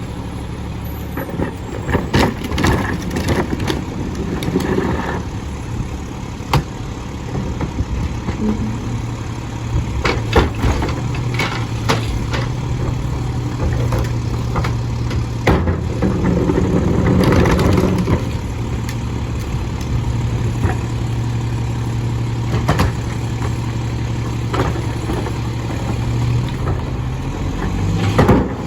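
Mack LE garbage truck's diesel engine running steadily at low speed, with scattered sharp clanks and knocks and a louder rushing swell about two-thirds of the way through.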